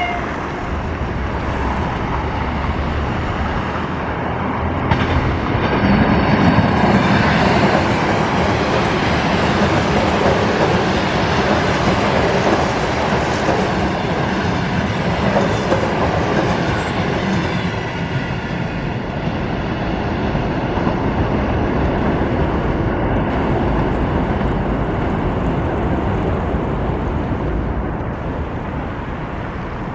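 Electric multiple-unit trains running on the line: a steady rush of wheels on rails. It grows louder about six seconds in as a train passes close, then eases off.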